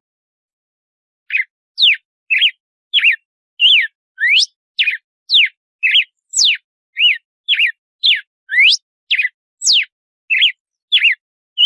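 Red-cowled cardinal (galo-de-campina) singing its 'açoite' song: a quick series of short, clear whistled notes, about two a second, some sweeping up and some sweeping down. The song starts about a second in.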